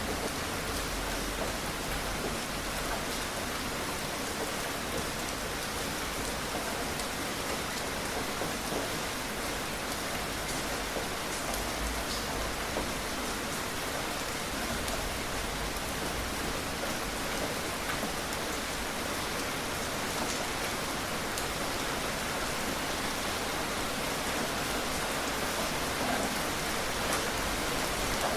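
Steady, dense rainfall, drops pattering on a surface as a continuous even hiss.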